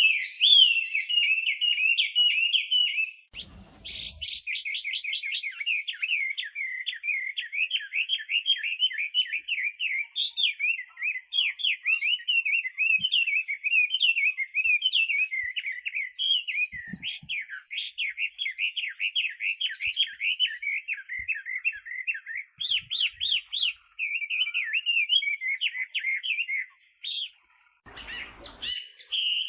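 Chinese hwamei singing a long, fast, varied song of quick whistled notes and repeated phrases, almost without pause. There is a brief low rustle about four seconds in and another near the end.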